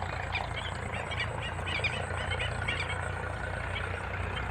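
Many short, high chirping animal calls in quick, irregular succession over a steady low hum.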